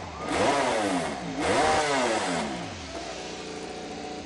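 Red Bull KTM MotoGP race bike's V4 engine being revved hard twice, the pitch climbing and falling back each time, then held at a lower, steadier speed for the last second or so.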